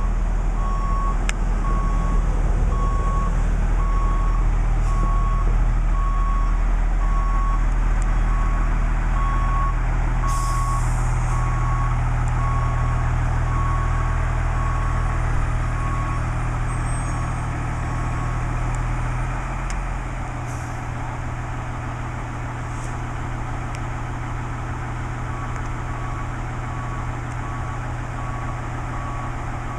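Fire truck's diesel engine running while its backup alarm beeps about once a second. The beeping stops about sixteen seconds in and starts again near the end. A short air hiss comes about ten seconds in, and the engine sound drops around twenty seconds in.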